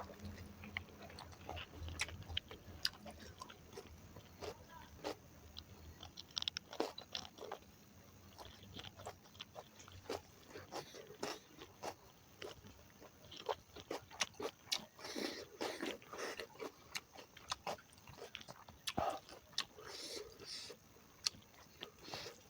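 Close-miked eating: a person biting and chewing a pork leg dish, with a steady run of irregular wet crunching clicks.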